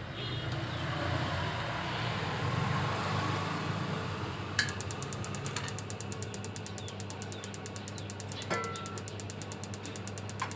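Modena laundry dryer running: a steady motor hum, joined a few seconds in by a fast, even ticking and a few scattered knocks.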